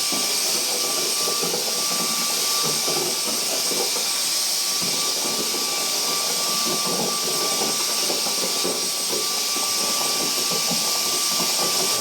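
Dyson DC35 Digital Slim cordless stick vacuum running steadily with a high whine, its beater brush working over carpet with irregular rustling and crackling as it takes up synthetic pet hair.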